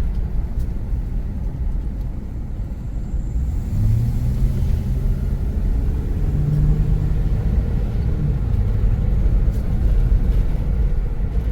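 Road and engine noise inside a moving car: a steady low rumble, with the engine's hum shifting in pitch a few times.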